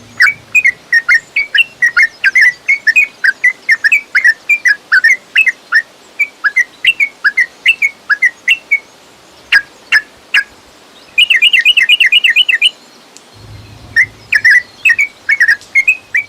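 Yellow-vented bulbul (trucukan) song: loud runs of quick, bubbling whistled notes, several a second, with a fast even trill lasting about a second and a half partway through. The song breaks off for about two seconds, during which there are three sharp clicks, then resumes near the end.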